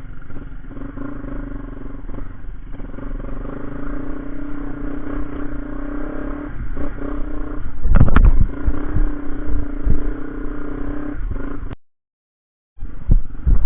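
Motorcycle engine running steadily, with a loud clatter about eight seconds in. The sound drops out completely for about a second near the end.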